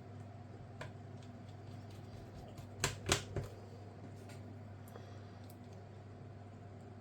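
A few light clicks and taps from laptop parts and small tools being handled. A quick cluster of three sharper knocks comes about three seconds in, over a steady low hum.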